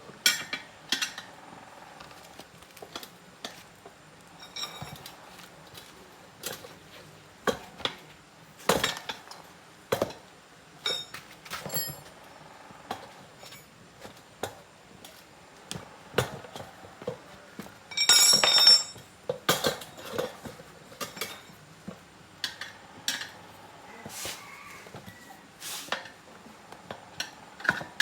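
Metal hand tools and motorbike parts clinking and knocking in scattered, irregular strikes, with a longer ringing metallic clatter about eighteen seconds in.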